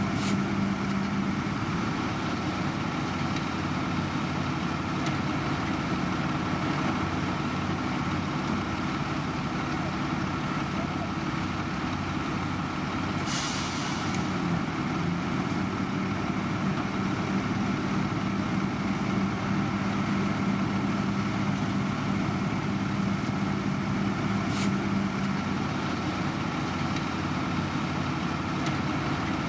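Heavy diesel engine of road-construction machinery running steadily, with a short hiss of air about halfway through and a couple of faint clicks.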